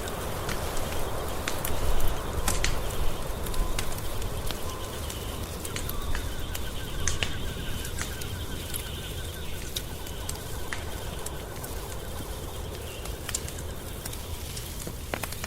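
Wood fire crackling, with frequent sharp pops and snaps over a steady low rumble of flames, the loudest pops about two seconds in.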